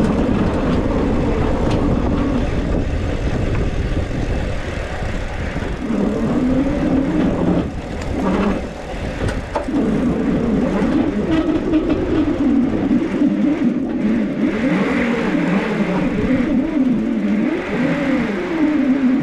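Electric bike motor whining, its pitch rising and falling with speed, over wind rumble on the microphone.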